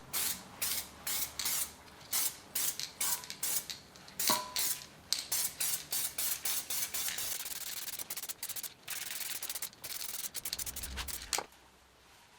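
Hand wire brush scrubbing a steel exhaust section in repeated scraping strokes, about two a second at first and then quicker, before stopping near the end; one brief metallic ring sounds about four seconds in.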